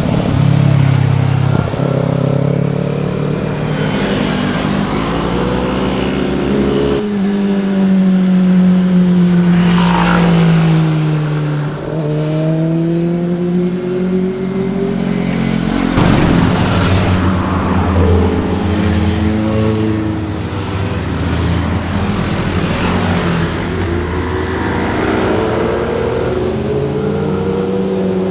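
Sport motorcycles' engines and exhausts revving as the bikes ride through a corner and pass one after another, the engine pitch climbing and falling several times. The sound changes abruptly about 7 and 16 seconds in.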